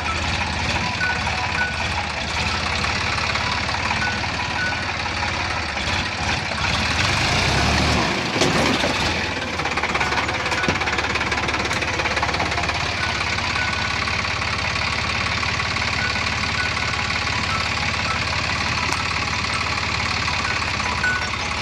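Sonalika tractor's diesel engine running steadily with a low knocking rumble, swelling louder for a couple of seconds about seven to nine seconds in.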